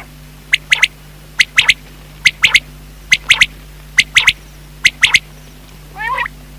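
Common quail calling its three-note 'wet-my-lips' phrase, repeated six times at an even pace of a little under one phrase a second. A different short, buzzy call cuts in about six seconds in.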